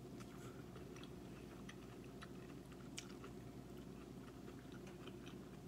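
Close-miked chewing of a mouthful of corn on the cob: a run of small, sharp clicks and crunches, with one sharper click about three seconds in, over a steady low hum.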